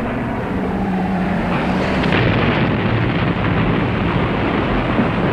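Propeller aircraft engines droning over a dense, low rumble, growing slightly louder after about two seconds.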